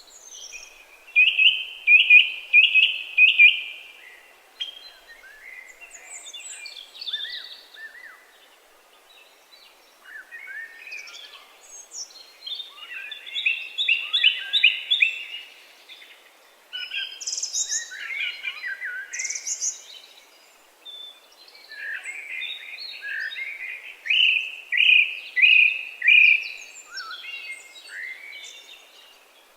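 Birds singing: bursts of high chirping song a few seconds long, repeated with short pauses between.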